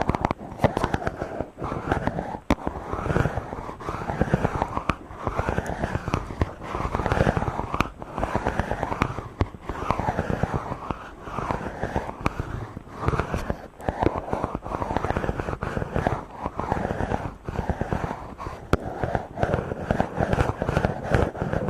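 A microphone being rubbed directly, a back-and-forth rhythm of scratchy, rumbling strokes a little more than once a second, with sharp crackles and clicks of handling noise throughout.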